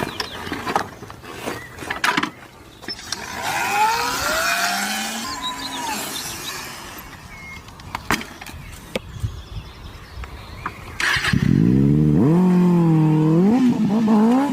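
Motorcycle engine starting about eleven seconds in and then revving, its pitch rising and falling, after a stretch of scattered clicks and knocks.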